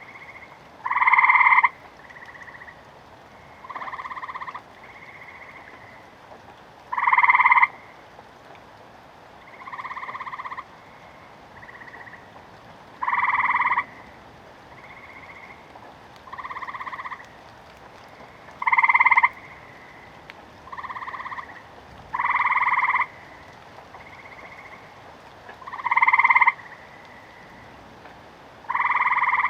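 Frogs croaking, one call about every second or two, each call lasting about half a second to a second. Louder calls come every few seconds, with fainter ones between them, over a faint steady hiss.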